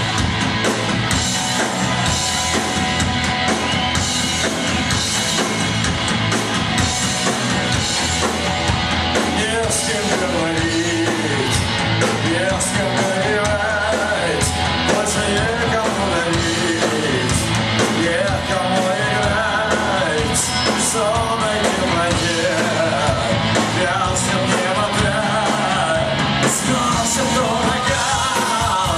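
Live punk rock band playing loud and steady, with guitars and drums. A voice sings and shouts over it from about a third of the way in.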